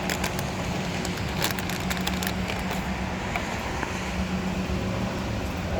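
Steady low hum of a vehicle engine running, with a few short, sharp clicks in the first couple of seconds.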